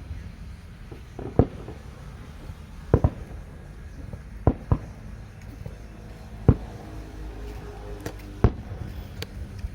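Fireworks going off in scattered single bangs, about seven sharp reports a second or two apart, some in quick pairs, over a low steady rumble.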